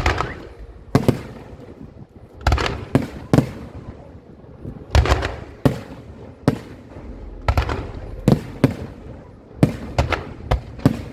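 Aerial fireworks shells bursting overhead: an irregular string of sharp bangs, some close together, each followed by a brief rumbling tail.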